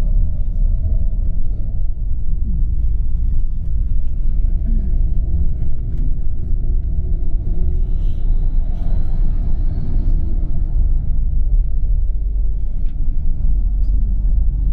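Steady low rumble of a tour coach on the move, heard from inside the passenger cabin: engine and tyre noise on the road.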